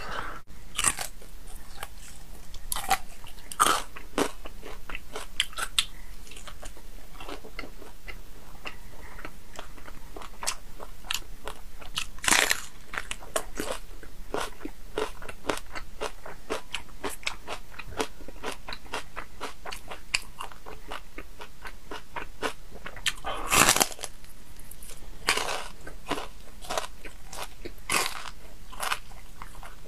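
Close-miked biting, crunching and chewing of crispy roast pork belly. Many sharp crunches come in irregular succession, with a few louder bites about twelve and twenty-four seconds in.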